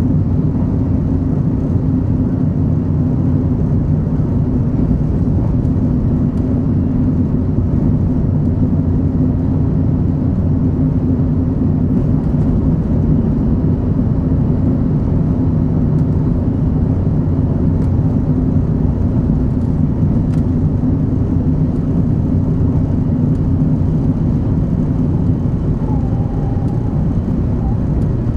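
Shinkansen 500 series train running at speed: a steady, loud low rumble of wheels and running gear that holds level throughout, with a faint brief tone about two seconds before the end.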